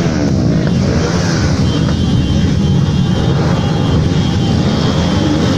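Tuned motorcycle engine running loud with revving, the rumble continuous throughout.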